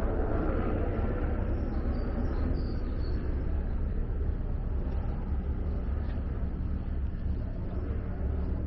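Outdoor ambience made up of a steady low rumble with a haze of noise above it, with no single event standing out.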